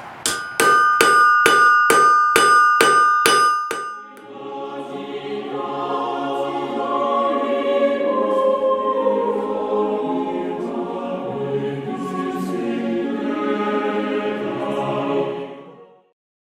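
Hammer striking an anvil about nine times, a little over two blows a second, each blow ringing. About four seconds in, choral music takes over and runs until shortly before the end.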